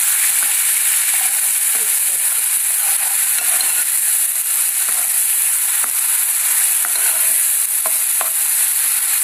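Tomato paste and fried garlic sizzling in hot oil in a metal pan while being stirred with a spoon: a steady high hiss, with a few faint clicks in the second half.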